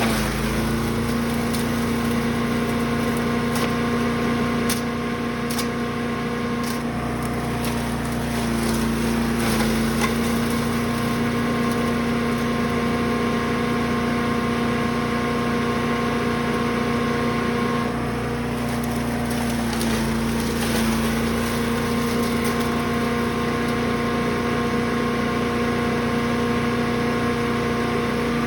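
Brush Master chipper/shredder's gas engine running steadily at speed, its pitch sagging briefly a few times as it takes load.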